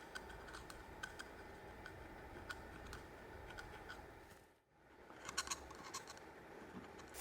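Faint scattered light clicks and taps over a low steady hum, with a quick cluster of clicks a little past halfway.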